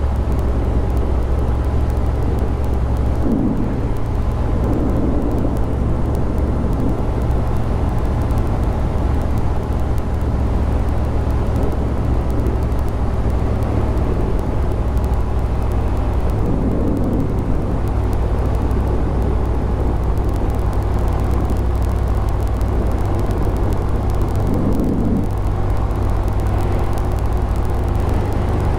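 Honda Grom 125's single-cylinder four-stroke engine running steadily under way, with a heavy low wind rumble on the microphone.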